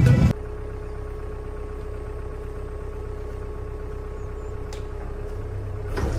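Steady low engine-like hum with a faint steady whine over it, growing louder just before the end.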